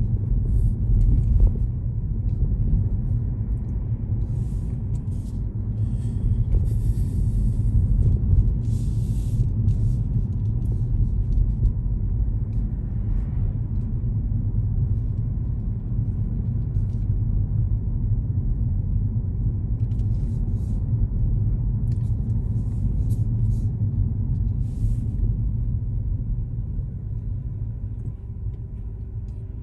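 Steady low rumble of a car driving along a road, the road and engine noise of the moving vehicle, with a few faint short ticks scattered through it.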